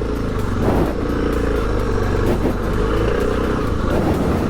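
Motorcycle engine running steadily under way as the bike is ridden up a rough, stony mountain track.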